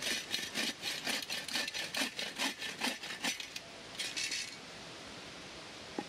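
Hand saw cutting through wood in quick back-and-forth strokes, about three or four a second. The sawing stops after about three and a half seconds, followed by one short scrape.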